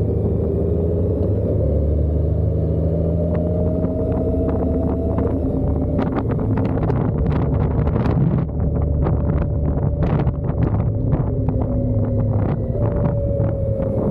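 Motorcycle engine running steadily on the road, its pitch shifting a few times, with wind buffeting on the microphone and many short sharp crackles in the second half.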